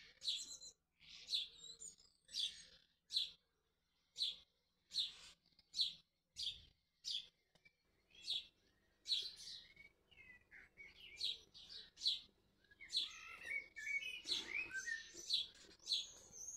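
A small songbird chirping, with short high calls repeated about once or twice a second, turning into a brief warbling song near the end.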